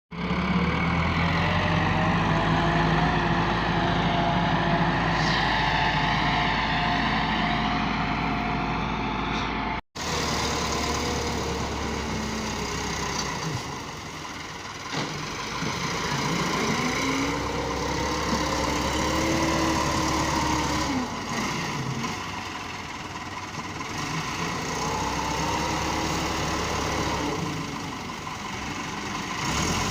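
Massey Ferguson 385 tractor's diesel engine running, its speed rising and falling several times. A brief cut to silence about ten seconds in.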